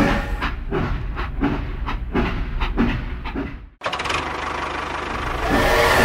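Toy steam locomotive's steam-train sound: rhythmic chugging with a chuff about every two-thirds of a second, then after a sudden break a steady hiss of steam, and a whistle blowing near the end.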